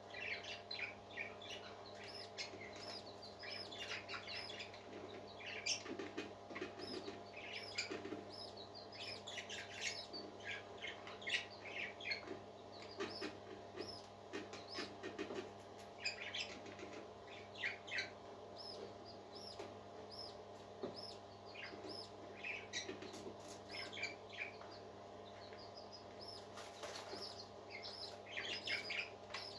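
A flock of parakeets chattering and chirping continuously, a dense stream of short high twittering calls, over a steady low hum.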